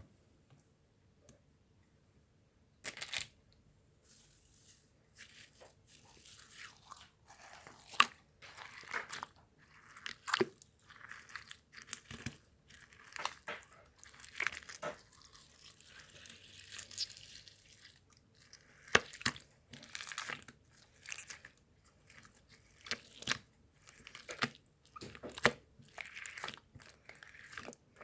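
Irregular close-up crunching and crackling, broken by sharp clicks and starting about three seconds in.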